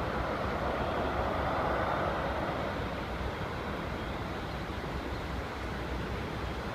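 Jet airliner's engine noise going by, a broad rushing roar that fades over the first three seconds or so, leaving a lower steady rush.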